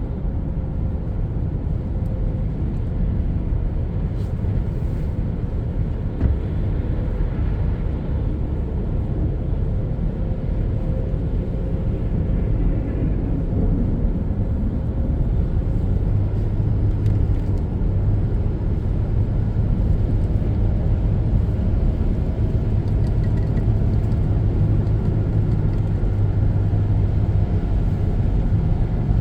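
Steady road and engine rumble heard inside a moving car, with a low drone growing stronger about halfway through.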